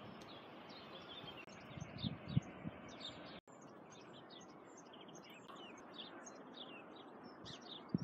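Birds singing, with many short high chirps over a faint outdoor background hiss, and a few soft low thumps about two seconds in.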